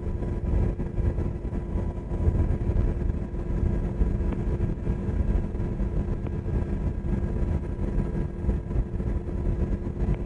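Black Hawk helicopter in flight, heard from inside the cabin: a steady low rumble of rotor and engine noise with a constant hum over it.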